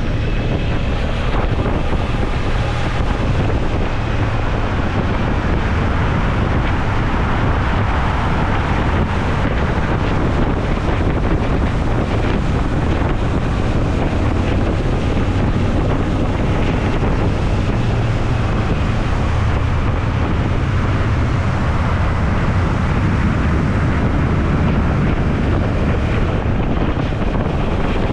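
Wind buffeting the microphone on a moving Suzuki V-Strom motorcycle, with the engine's steady low drone underneath.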